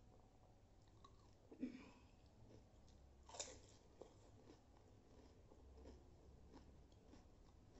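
Pani puri being eaten: a crisp, water-filled puri shell crunching as it is bitten, then quieter chewing. There are two sharper sounds about one and a half and three and a half seconds in.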